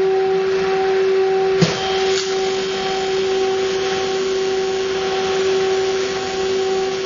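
Argon (TIG) welding arc on a car air-conditioning pipe, giving a steady high buzz over a hiss while a hole chafed through by a clamp is welded shut. A short click about a second and a half in.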